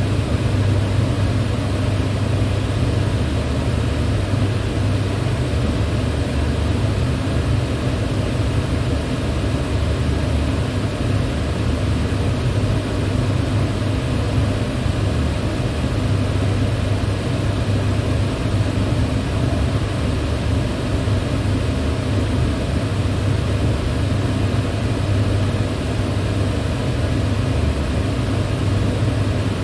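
Electric fan running steadily: an even rush of moving air over a constant low hum, with no change in speed.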